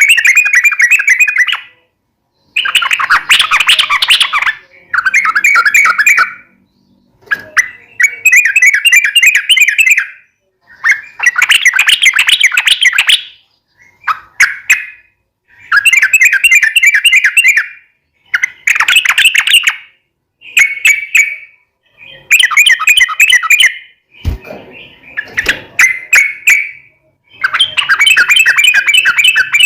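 Sooty-headed bulbul (trucukan) singing vigorously in repeated rapid, bubbly chattering phrases, each a second or two long, with short pauses between them.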